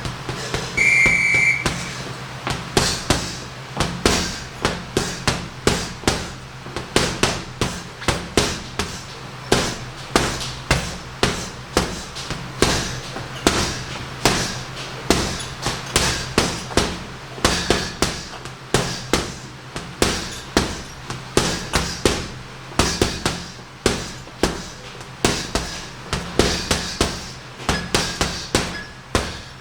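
Boxing gloves punching a heavy bag in quick, uneven combinations, several blows a second with short pauses between bursts. A short high beep sounds about a second in, like a round timer.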